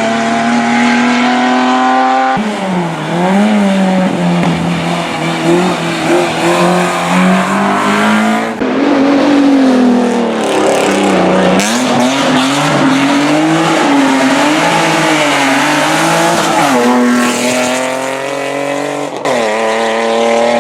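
Hillclimb racing car engine at high revs, its pitch climbing and dropping with throttle and gear changes, with tyres squealing at times. The sound jumps abruptly to a different pitch several times.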